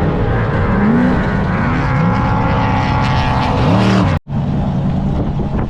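A car engine revs hard at an offroad and drifting event, its pitch rising and falling several times over a steady loud drone. About four seconds in the sound cuts out for a moment, then carries on.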